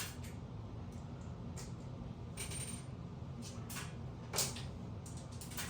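Light metallic clicks and scrapes of a small flathead screwdriver working at the screws of a bathroom exhaust fan's cover, the loudest click about four and a half seconds in, over a steady low hum.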